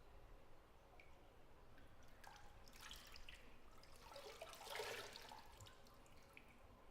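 Bathwater in a small tiled bathroom: faint scattered drips, then a short splash of moving water about two-thirds of the way through, which is the loudest moment.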